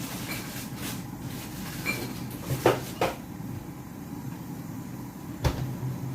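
A few short knocks and clacks of objects being handled, over a steady low hum. The loudest knocks are a close pair about halfway through, and a last one comes near the end.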